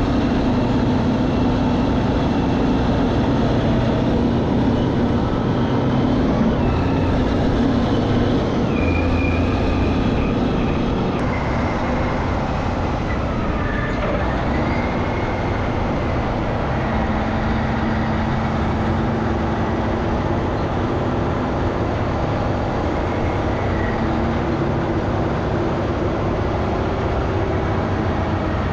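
Caterpillar 637C twin-engine scrapers' diesel engines running steadily under heavy load, with a thin higher whine that wavers in pitch.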